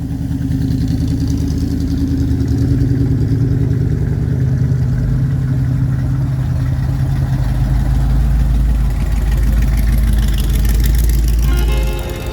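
A motor vehicle engine running close by with a steady low rumble that grows heavier in the second half. Music starts near the end.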